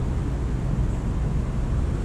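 Steady low rumble with no distinct calls or knocks.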